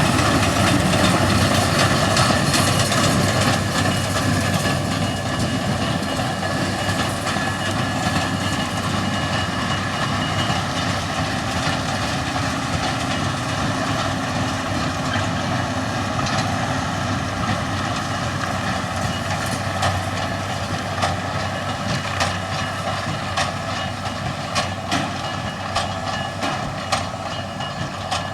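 Steady mechanical running noise of a large vehicle with a few held tones, easing off slightly, with sharp clicks coming more often in the last several seconds.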